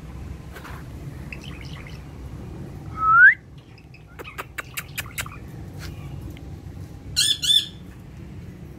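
Parrot calling: one loud rising whistle about three seconds in, a run of sharp clicks, then two harsh squawks near the end.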